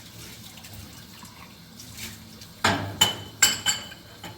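Metal kitchenware clinking together: four sharp, ringing clinks in quick succession in the second half, over a faint hiss of running water.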